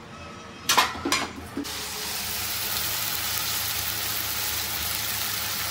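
Chicken curry masala sizzling in a hot pan. A few sharp knocks of a utensil or pot come first, then a loud, steady sizzle starts suddenly about a second and a half in and keeps going.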